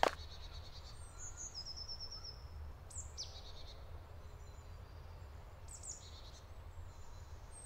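Woodland birds chirping and trilling now and then, faint, over a steady low rumble, with a single short knock at the very start.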